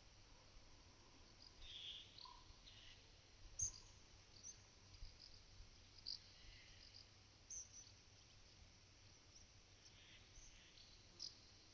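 Two cows licking a mineral salt block: a few short, slightly abrasive clicks, the loudest about a third of the way in, under faint calls of small birds.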